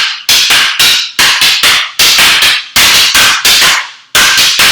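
Escrima sticks striking each other in the Heaven 6 double-stick drill: sharp, loud clacks in quick runs of about three, several strikes a second.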